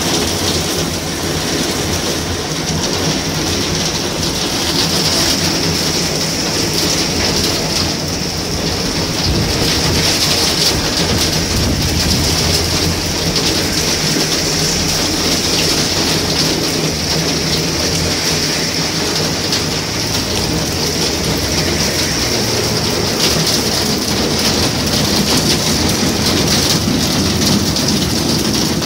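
Heavy rain pouring steadily onto the street, pavement and a shelter roof, with car tyres swishing through the standing water as traffic passes.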